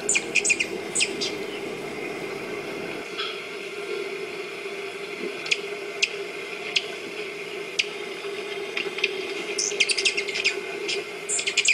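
Birds chirping: short, sharp high chirps in quick clusters just after the start and again near the end, with single chirps in between, over a steady low hum.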